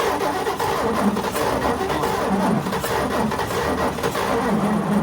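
1941 Chevrolet pickup's straight-six engine being turned over on the starter, cranking steadily without catching, on a first start attempt after 40 years sitting.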